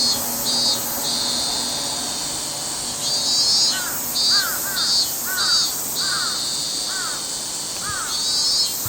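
Cicadas buzzing, pulsing about twice a second with stretches of steady drone, while a bird gives short repeated calls, about two a second, in the first half and again from about four seconds in.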